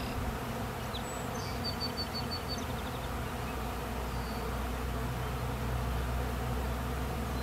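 A swarm of honey bees buzzing steadily, many bees humming at once.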